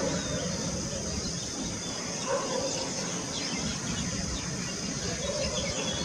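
Outdoor ambience of birds in a tree: scattered short, quick bird chirps over a steady high-pitched background hiss and a low rumble.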